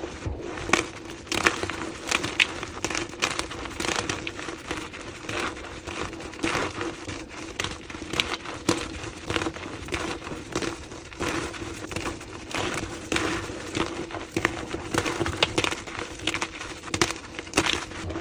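Blocks of gym chalk being crushed and crumbled, sped up to double speed: a dense, continuous run of crisp crunches and crackling snaps.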